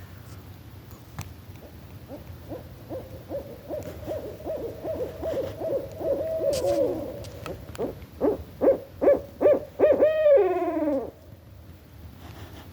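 Barred owls calling: a long run of rapid hoots that builds in loudness, ending about eleven seconds in with a few loud hoots and a drawn-out call sliding down in pitch.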